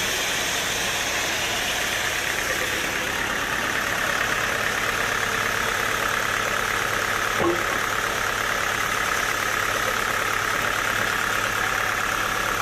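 Sawmill machinery running steadily, an even mechanical hum and noise, with a single short click about seven and a half seconds in.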